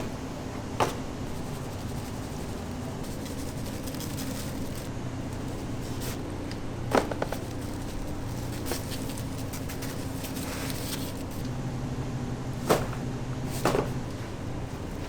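A steady low hum with four sharp knocks or clatters scattered through it, two of them close together near the end.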